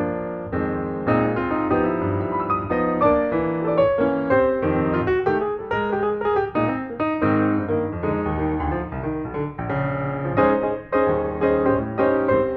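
Piano music playing: a steady flow of notes.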